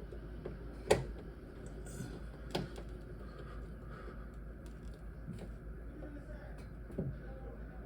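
A few light clicks and knocks of small parts being handled, the sharpest about a second in and another near the end, over a low steady room hum.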